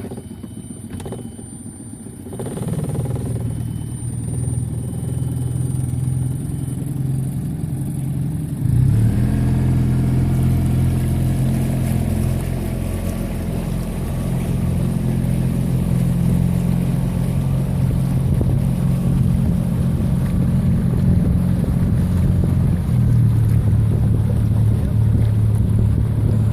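Motorboat engine running, opened up sharply about a third of the way in and then holding a steady drone, with water and wind noise.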